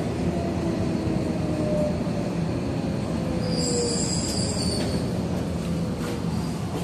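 Tobu 70000 series electric train running, heard from inside the front car: a steady rumble from the running gear under a faint motor whine whose pitch slowly falls. A brief high squeal comes in about three and a half seconds in and stops about a second and a half later.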